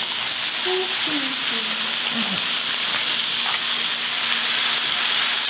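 Mushrooms sizzling steadily in hot oil in an electric skillet while fresh spinach leaves are piled in on top by hand.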